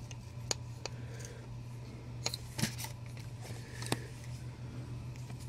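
A few light clicks and knocks from handling a collectible statue as a piece is fitted onto its base, over a steady low hum.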